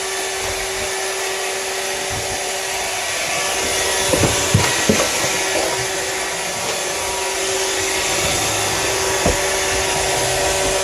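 Roomba robot vacuum running: a steady whir with a hum, and a few short knocks about four to five seconds in and once more near nine seconds.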